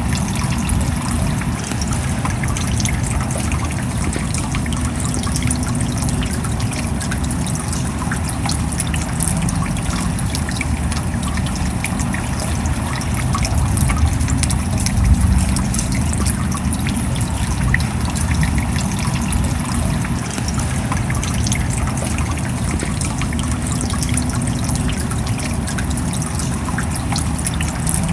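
Steady rain with trickling water, many small drop ticks over a low, even rumble.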